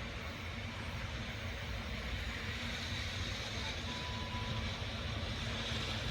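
EF63 electric locomotive running, a steady low rumble with a faint hum that slowly grows louder as it approaches.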